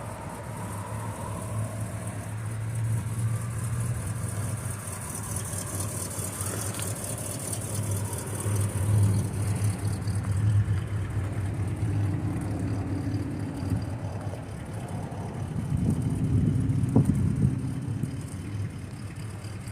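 A car engine running with a steady low rumble, swelling a little about halfway through and again near the end.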